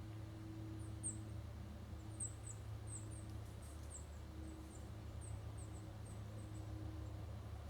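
Small songbirds giving many short, very high-pitched chips and squeaks, a few a second, over a steady low background hum.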